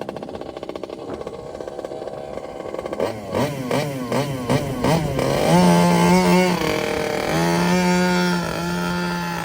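36cc two-stroke petrol engine of a 1/5-scale Rovan RF5 RC rally car idling, then blipped in about six quick revs, then held at higher revs twice with a short drop in between.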